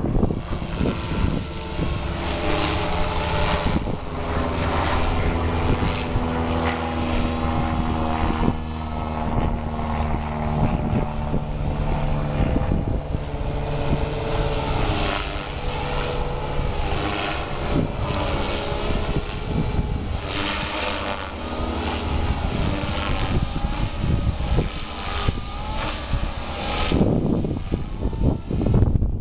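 Electric 450-size RC helicopter flying 3D: its motor and rotors whine, with the pitch shifting up and down as it manoeuvres. Wind buffets the microphone throughout.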